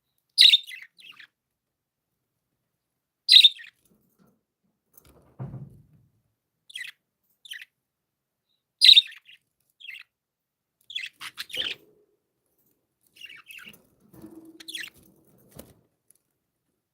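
Pet budgerigars giving short, sharp chirps one at a time, with gaps of silence between, three of them louder than the rest. A soft low thud comes about five seconds in.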